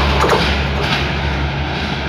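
Passenger train going away along the track: a few wheel clacks over rail joints in the first second, over a steady low rumble that slowly fades.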